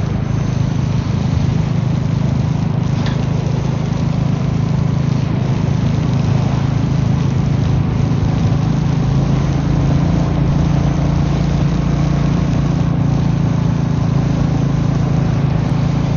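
Royal Enfield Meteor 350's single-cylinder engine running steadily while riding, with a constant rushing noise over it.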